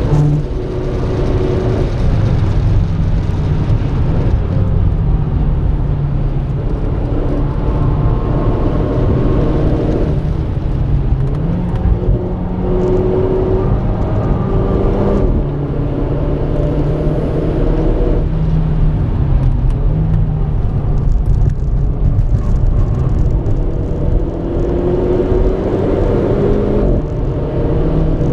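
Renault Clio RS220's turbocharged four-cylinder engine under hard track driving, its pitch climbing steadily and dropping back several times at gear changes, over a steady rumble of road and tyre noise.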